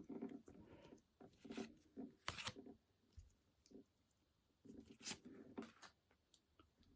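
Faint rustling and clicking of Pokémon trading cards and booster-pack wrapping being handled, in a few short spells.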